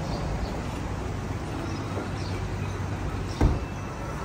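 New Isuzu's diesel engine idling steadily, with a single knock about three and a half seconds in.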